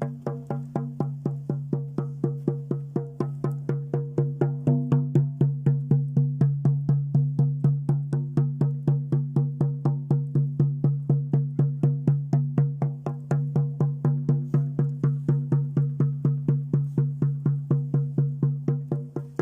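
Drum beaten in a steady, even rhythm of about four beats a second. Each beat rings with a low tone, typical of shamanic ceremonial drumming. The beating grows somewhat louder about four seconds in.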